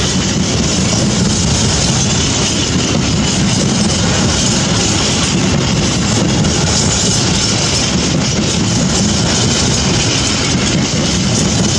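Empty Sgnss container flat wagons of a freight train rolling past on the rails, a steady, loud rumble of wheels and running gear that holds unchanged throughout.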